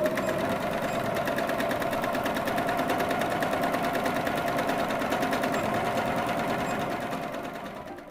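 Electric sewing machine stitching at a steady, rapid pace, with a fast even clatter and a steady hum; it winds down near the end.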